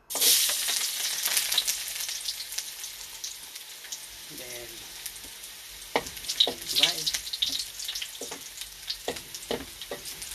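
Chopped onion and garlic dropped into hot cooking oil: a loud sizzle starts abruptly, then eases into a steady frying hiss broken by clicks and scrapes of stirring in the pan.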